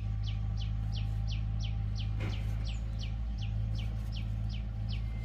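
A bird calls a short, falling chirp over and over, about three times a second, over a steady low hum. There is a single knock about two seconds in.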